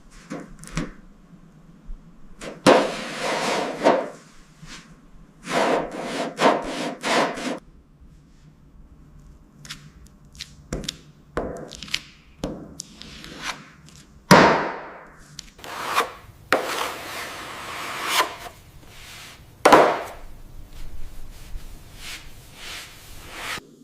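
Rough scrubbing and rubbing strokes on a car's surface in irregular bursts, some brief and some running about a second, with a few sharper hits among them.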